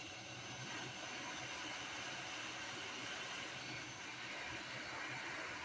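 Hot air rework station blowing a steady hiss of hot air onto a circuit board, heating lead-free solder to free a surface-mount component.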